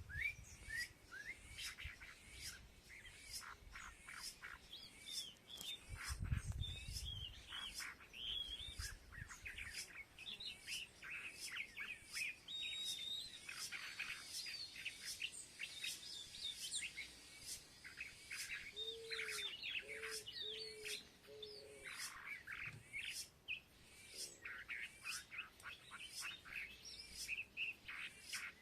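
Several small birds chirping and calling at once, with quick overlapping chirps and short whistled glides throughout. About two-thirds of the way through, a lower call of four short notes sounds. There are two brief low rumbles, one at the start and one about six seconds in.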